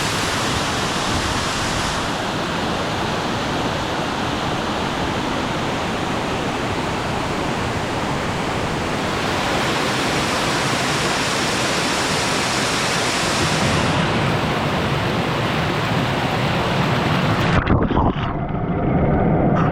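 Waterfall with water rushing steadily. Near the end the sound turns abruptly duller and lower, with a few sharp knocks.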